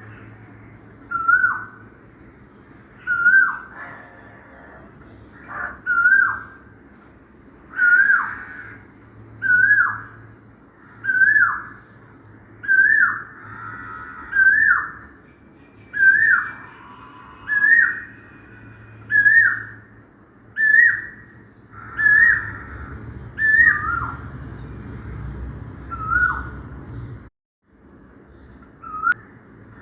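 Asian koel calling: a clear, whistled note that rises sharply and then falls, repeated over and over about every second and a half to two seconds.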